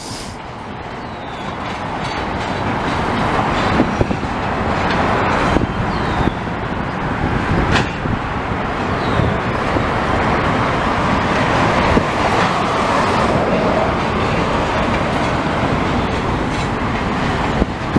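Double-stack container train rolling past: a steady rumble of steel wheels on rail that builds over the first few seconds, with occasional sharp clanks.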